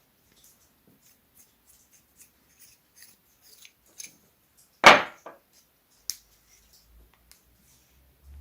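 Light clicks and taps of small parts or tools being handled. About five seconds in comes one loud clatter that fades over half a second, then a sharp click.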